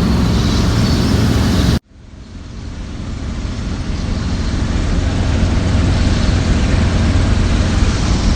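Steady noise that cuts off abruptly about two seconds in, then the steady low drone of a small helicopter's engine and rotor fading in and holding.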